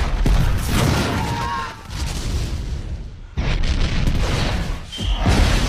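Explosions and gunfire from a war-film air-raid soundtrack: a run of loud, deep blasts. The noise dips briefly about two seconds in and comes back suddenly after about three and a half seconds.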